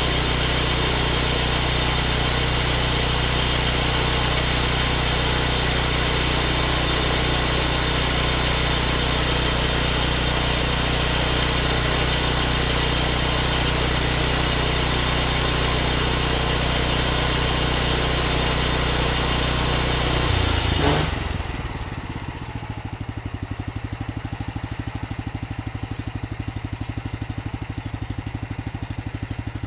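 Vallee Big Red sawmill running and sawing a log, a loud steady engine note under a strong high hiss of the blade in the wood. About 21 seconds in the hiss cuts off suddenly and the engine drops to a quieter, pulsing idle.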